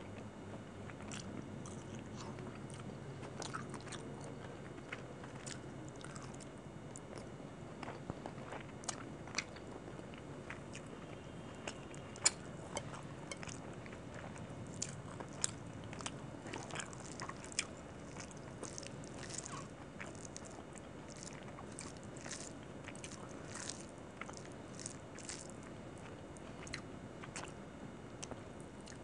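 Close-miked chewing of a mouthful of chicken curry and rice, with irregular wet mouth smacks and sharp clicks.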